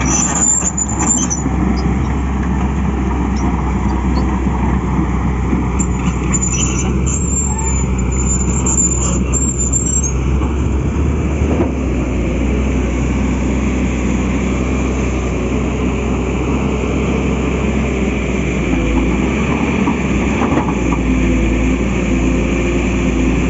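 Truck engine running steadily, with a high thin squeal twice in the first ten seconds.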